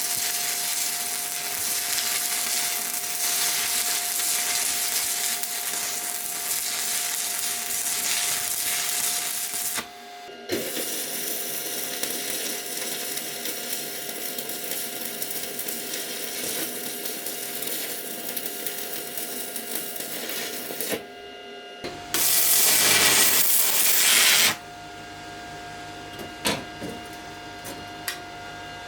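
Welding arc from a REM POWER WMEm 250 Lynx inverter welding machine crackling and hissing in two runs of about ten seconds each, with a steady whine beneath. About two-thirds of the way through, a louder hiss lasts a couple of seconds, followed near the end by a few light ticks.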